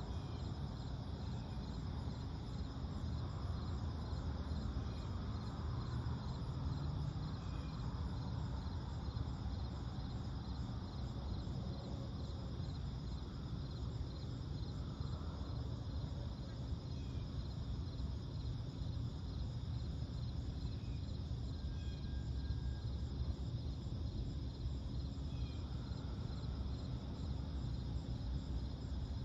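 Night insects trilling steadily in a high, evenly pulsing chorus over a low steady rumble, with a few faint short chirps here and there.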